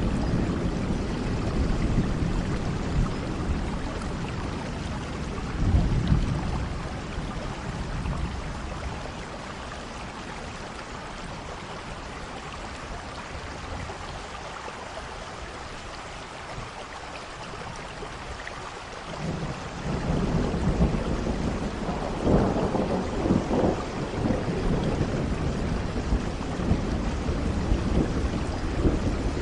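Steady rain with rolling thunder. The rumble dies away about eight seconds in, leaving only the rain for some ten seconds; a new roll of thunder comes in at about twenty seconds, loudest a couple of seconds later.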